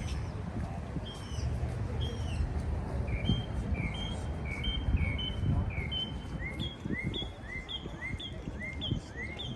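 A bird chirping over and over in short, quick notes, in an even rhythm of about two to three notes a second from about three seconds in, over a steady low rumble.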